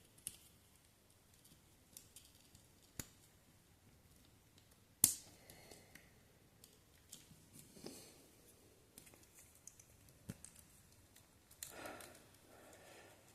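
Sparse small clicks and taps over a quiet room, with one sharper click about five seconds in and faint rustling near the end.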